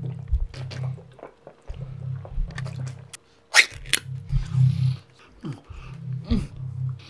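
Greedy eating and drinking: wet gulps, slurps and swallows, with a few loud gulps about halfway through. Under it a low throbbing pulse comes and goes about every two seconds.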